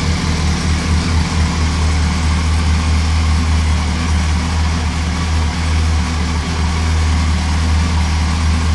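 Yamaha R1 sport bike's inline-four engine idling with a steady low exhaust note.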